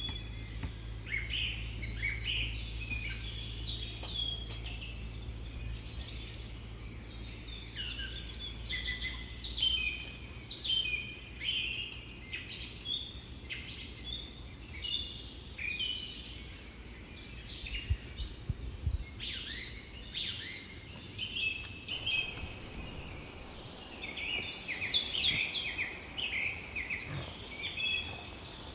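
Small birds chirping and twittering continuously, many quick high notes overlapping. A low steady rumble sits underneath for about the first third.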